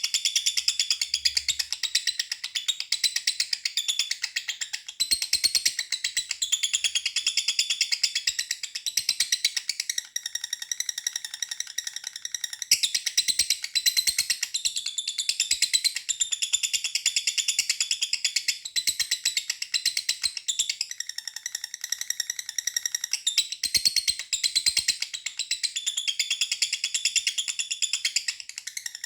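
Lovebird singing its long 'ngekek' song: a fast, unbroken chatter of high, rapid chirps, pausing only briefly a couple of times.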